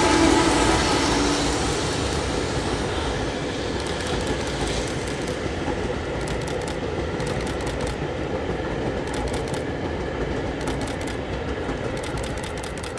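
Towed electric train cars rolling across a railway bridge, their wheels rumbling with a run of clicks from a few seconds in, the sound slowly fading as the train passes. A steady tone at the start dies away within the first second or two.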